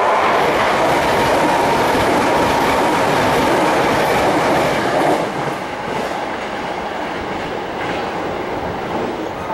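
Hankyu electric train running past a station platform, its wheels clattering over the rails. The noise drops about five seconds in as the train moves away.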